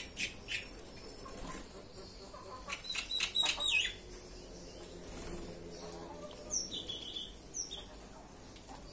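Small birds bathing: a flurry of quick wing flutters and sharp strokes about three seconds in, with a few short, high chirps later on.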